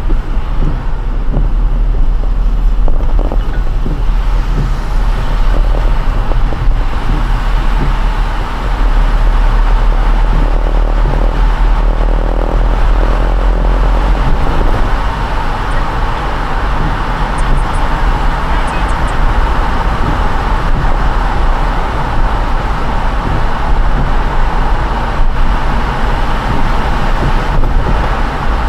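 Car driving on a wet road in the rain: a steady low rumble of engine and road noise with the hiss of tyres on wet pavement, the hiss growing stronger partway through.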